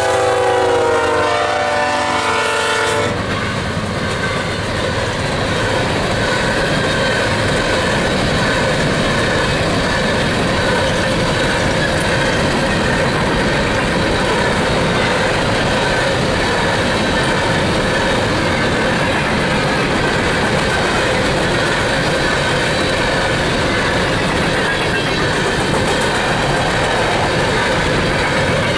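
A locomotive horn sounds a chord of several notes and cuts off about three seconds in. It is followed by the steady rumble and clickety-clack of an empty coal train's cars rolling past.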